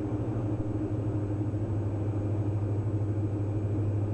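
Steady drone of a Diamond DA42 NG's twin Austro turbodiesel engines and propellers, heard from inside the cabin during a descent.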